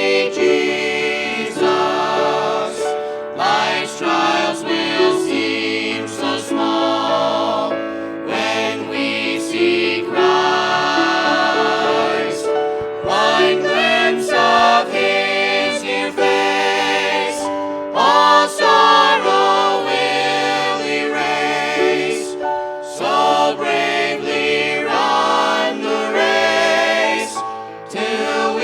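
A small vocal group singing a gospel song in harmony, with vibrato on the held notes.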